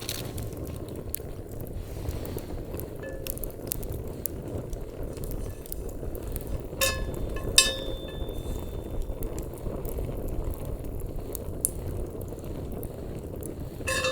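Wood fire crackling over a steady low rush, with two ringing clinks of metal or glass about seven seconds in.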